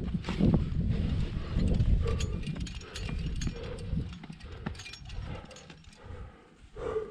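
A climber working up a tight rock chimney: body, clothing and gear scraping and rubbing against the rock, with clicks of gear and heavy breaths now and then. The rubbing is loudest in the first half and eases off after about four seconds.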